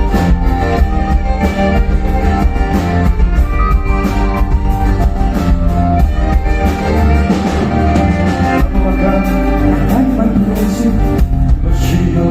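Folk-rock band playing an instrumental passage with no singing, pitched melody lines over a steady drum beat.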